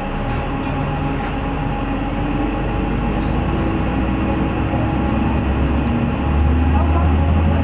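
City bus running along its route, heard from inside the cabin: a steady engine and road rumble, with the low engine note growing louder about six seconds in as the bus picks up speed.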